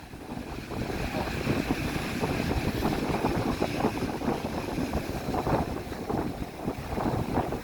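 Strong wind buffeting the microphone in steady gusty rumbles, over the rush of sea surf breaking on the shore.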